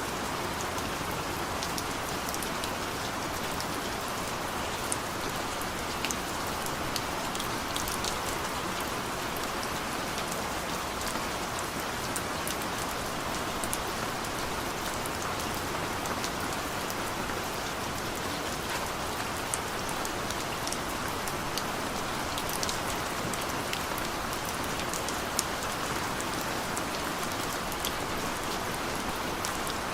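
Steady rain: an even hiss of falling rain with many scattered sharp ticks of individual drops striking.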